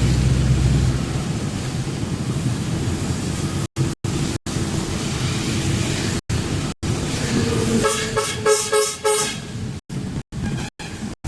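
Vehicle engine and road rumble with a quick series of short horn toots about eight seconds in. The audio cuts out for an instant several times.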